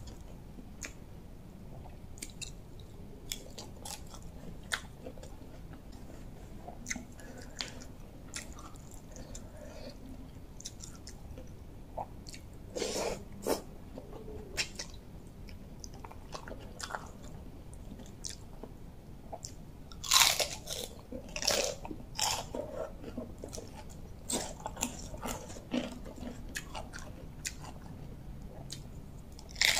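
A person chewing and biting close to the microphone while eating a spicy rice-noodle salad with raw vegetables by hand: crisp crunches among wet smacking. Louder bites come about 13 seconds in and again around 20 to 22 seconds.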